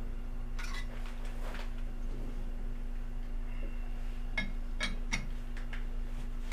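Light metal-on-metal clinks and taps while a dial indicator is set up on a lathe: a few soft ones about half a second in, then four sharper, ringing taps between about four and six seconds in. A steady low electrical hum runs underneath.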